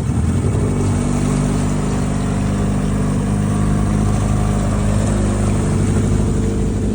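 Boat engine running steadily as the boat gets under way, its note filling out about a second in and holding a steady pitch.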